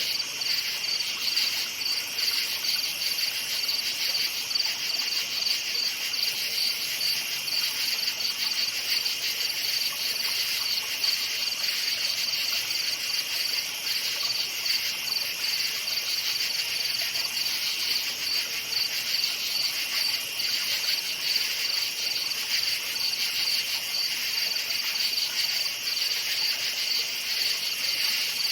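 Crickets chirping in a steady, dense chorus: a continuous high-pitched trill with a fast, even pulse.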